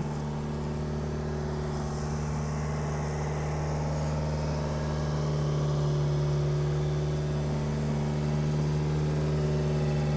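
1993 Subaru Sambar truck's 660 cc EN07 four-cylinder engine idling steadily while still cold, a little louder from about halfway through.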